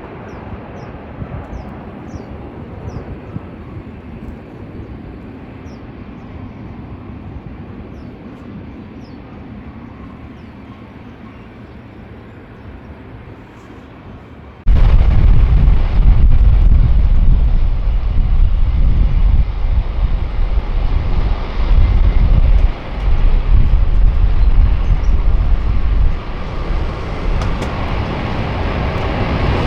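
Steady distant airport rumble, then about halfway through an abrupt cut to a much louder, deep jet airliner engine rumble that surges and dips until the end.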